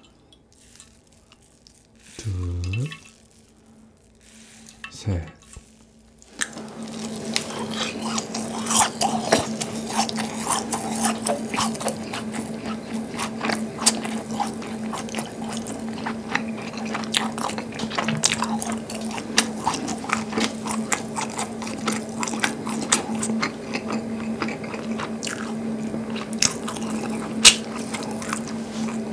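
Close-miked chewing of a squeezed, syrup-soaked rasgulla, wet mouth clicks and squishes coming thick and fast from about six seconds in. Before that it is nearly quiet, with two short spoken counts as the ball is squeezed. A steady low tone runs under the chewing.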